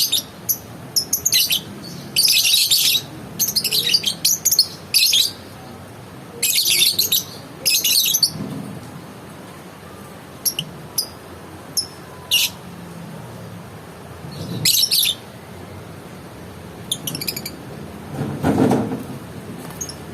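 Lovebird calling in short, sharp, shrill chirps, many in quick succession through the first eight seconds, then only scattered single chirps.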